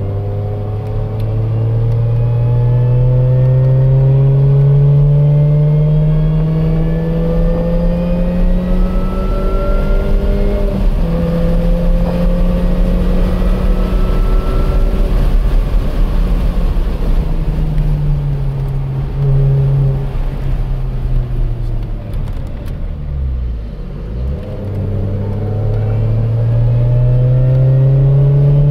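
Car engine under hard acceleration, heard from inside the car, its note climbing steadily and then stepping down at a gear change about eleven seconds in. It then falls as the car slows for a corner and climbs again near the end as the car pulls out of it.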